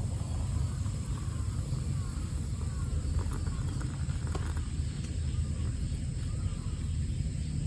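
Outdoor ambience: a steady low rumble with faint, scattered short chirps and a few light clicks.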